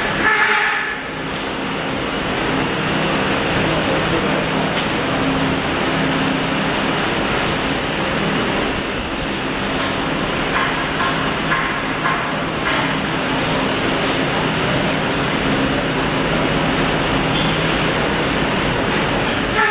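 Electric arc welding: a steady hiss over a low machine hum, running unbroken.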